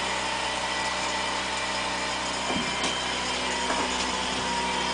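Fishing reel ratcheting steadily as a fish is reeled up through the ice.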